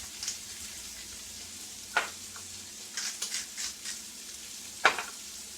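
Chicken livers, onions and mushrooms frying in butter in a pan, with a steady sizzle. Two sharp knocks, one about two seconds in and one near the end, and a run of light ticks in between.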